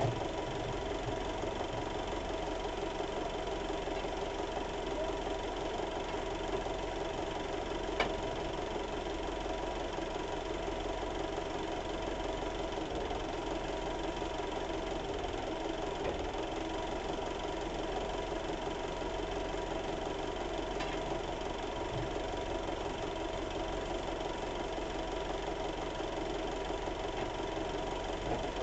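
An engine idling steadily, with one sharp click about eight seconds in.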